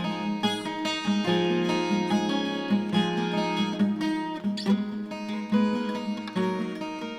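Twelve-string acoustic guitar playing a solo piece, with plucked notes in quick succession ringing over each other above a sustained low bass.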